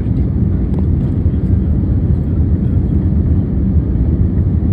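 Airliner cabin noise: a steady low rumble of the engines and the air rushing past the fuselage, heard from inside the passenger cabin.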